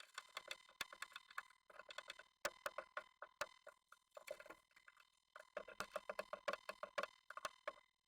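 A Japanese tit moving about inside a wooden nest box: rapid clusters of light taps and scratches on the wood, with short pauses between them. Under them runs a faint steady tone.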